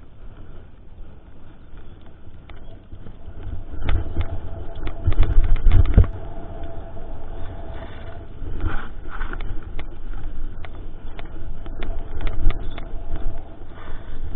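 Mountain bike riding over rough trail, heard through a GoPro's microphone: wind rumbling on the mic, with scattered rattles and knocks from the bike, heaviest from about four to six seconds in.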